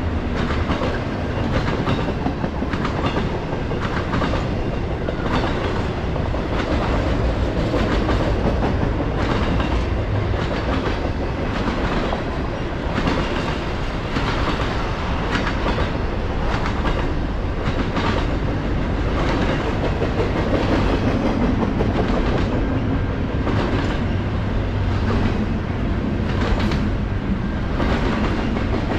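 A freight train passing close by, its rumble steady throughout and its wheels clacking over the rail joints many times.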